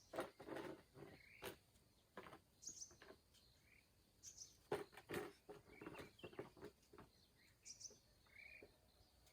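Faint, scattered bird chirps, a few short high ones and several brief rising ones, mixed with light knocks and clicks from handling.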